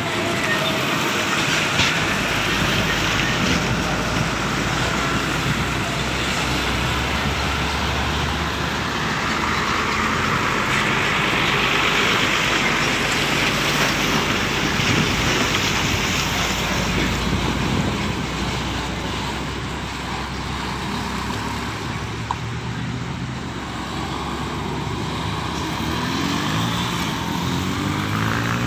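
Road traffic: motor vehicles passing on a road with continuous engine and tyre noise, swelling about halfway through. Near the end one vehicle's engine rises in pitch as it speeds up.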